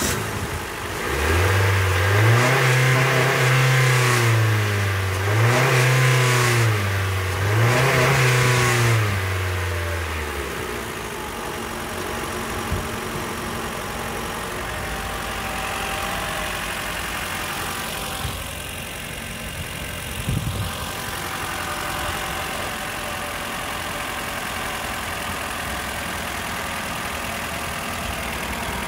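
2014 Mitsubishi Outlander's MIVEC engine revved up and back down three times, then idling steadily from about ten seconds in.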